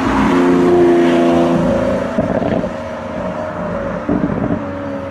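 Lamborghini Aventador supercar's V12 engine running as the car drives along, holding a steady note at first and changing about two seconds in.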